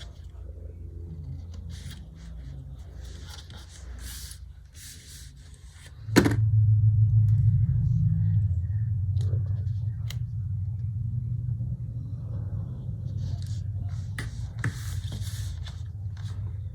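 Paper handling: light rustles, scrapes and small clicks of paper and stickers being worked by hand, over a low steady hum. About six seconds in, a louder low rumble starts suddenly and carries on, easing a little.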